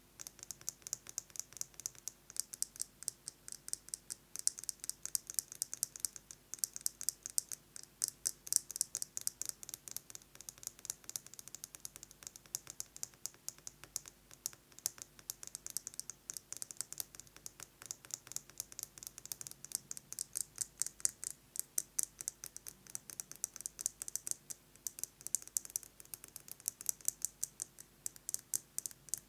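Fingernails fast-tapping on a metal lipstick case: a rapid, uneven patter of sharp, bright clicks.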